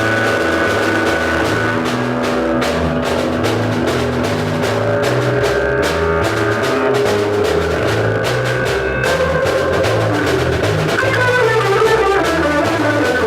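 A rock band playing live without vocals: drum kit with cymbal hits and electric guitar over a steady bass line, with a run of melodic notes near the end.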